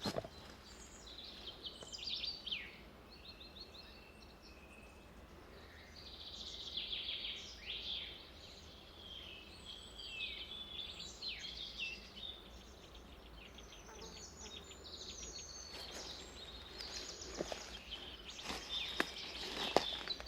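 Several forest birds singing, a mix of short chirps and quick trills overlapping, with a faint steady rumble underneath. Footsteps on the path come in during the last few seconds.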